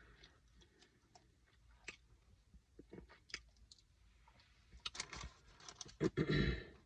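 Takeout food packaging being handled: scattered small clicks and taps, then a louder crinkling rustle about six seconds in.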